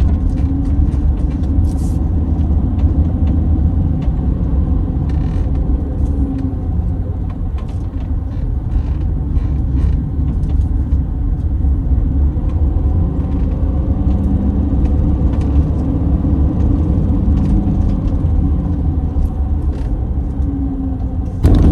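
Motorhome engine and road noise heard from inside the cab: a steady low rumble, with scattered light clicks and rattles.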